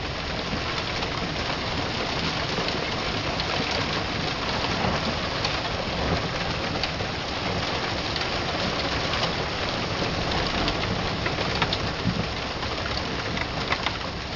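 Hail coming down hard, a dense steady hiss of hailstones striking the ground and nearby surfaces with many sharp individual ticks and clicks scattered through it.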